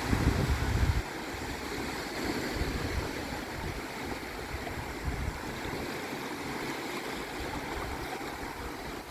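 Sea water washing and splashing in a steady rush, with a gust of wind buffeting the microphone in the first second.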